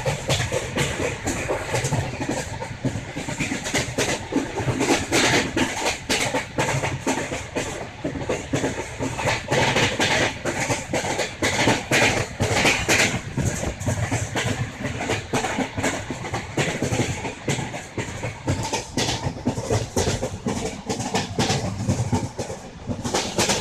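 Passenger train running along the track, heard from on board a coach: steady rumble and rush of the moving train with frequent clicking and clattering of wheels over the rails.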